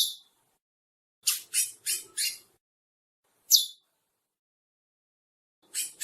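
Curió (chestnut-bellied seed finch) giving short, harsh, chirping call notes: a quick run of four about a second in, a single note a couple of seconds later, then two more near the end, with silent gaps between.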